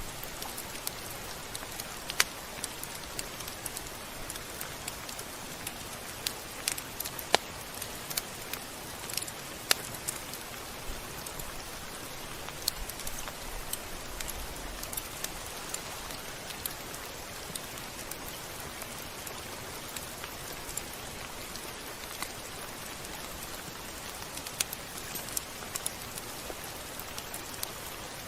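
Steady rain: a constant hiss with sharp, irregular drop hits scattered throughout.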